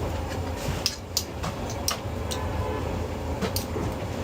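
Street-stall background noise: a steady low rumble with about ten irregular sharp clicks and knocks scattered through it.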